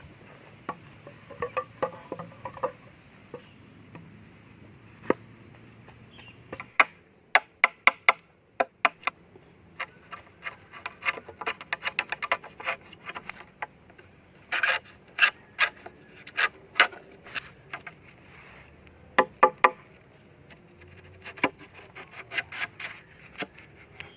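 Many irregular sharp taps and knocks, often in quick runs of several, over a faint steady hiss.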